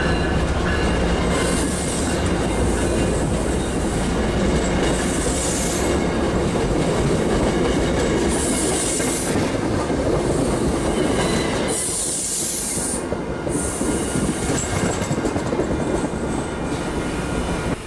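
Passenger train rolling past close by: a steady rumble of the cars with the clickety-clack of wheels over the rail joints, and four short high-pitched hisses spread through it.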